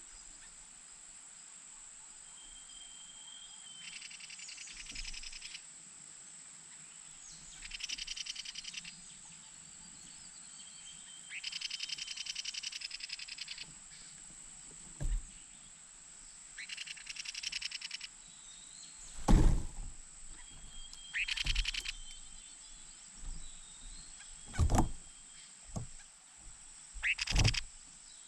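Short bursts of rapid, high-pitched chittering, each lasting a second or two and coming every few seconds over a steady high whine. In the second half there are several loud thuds.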